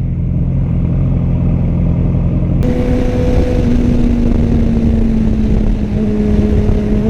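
Yamaha R6 sport bike's inline-four engine running with a steady low note. About two and a half seconds in, it switches suddenly to a louder wind rush over a higher, steady engine tone as the bike rides at speed.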